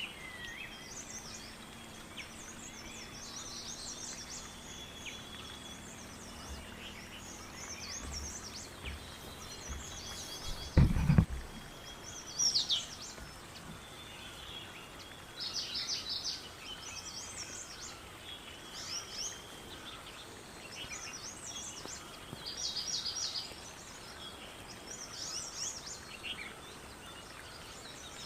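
Several wild birds chirping and singing in short, repeated calls over a steady outdoor background hiss, with a short low thump about eleven seconds in.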